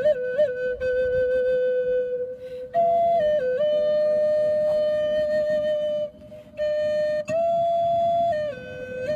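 A flute-like wind instrument playing a slow solo melody of long held notes decorated with quick ornamental turns, with two short breaks in the line.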